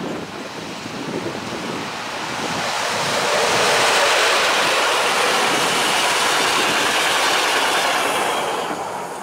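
Electric locomotive EU07E-160 hauling a train of tank wagons past, with the wheels running on the rails. The noise swells from about two seconds in, stays loudest through the middle and fades near the end.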